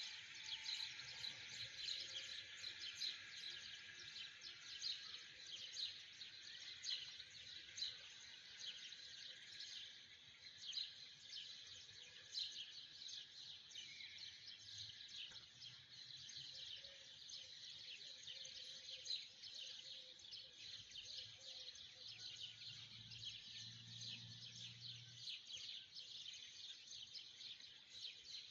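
Many small birds chirping together in a dense, continuous, faint chorus.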